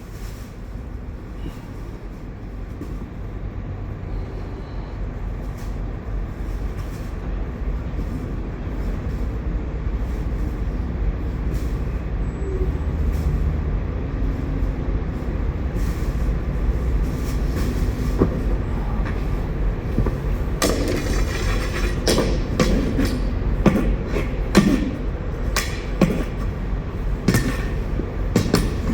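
Steady low rumble of truck engines, growing a little louder, with scattered knocks and scrapes in the second half as leftover potatoes are cleared out of the trailer.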